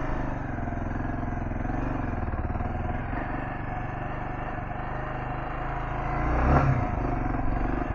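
Kawasaki KLR650's single-cylinder four-stroke engine running steadily as the motorcycle is ridden slowly off-road, briefly louder near the end.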